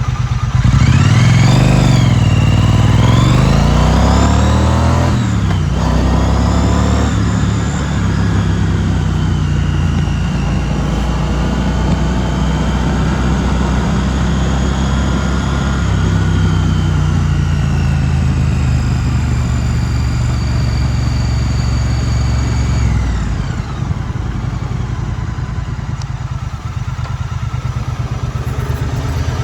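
2016 Triumph Street Twin's 900 cc parallel-twin engine revving up and down as the bike pulls away, then running steadily with the revs slowly climbing. About 23 seconds in the revs fall away and the engine runs lower and quieter.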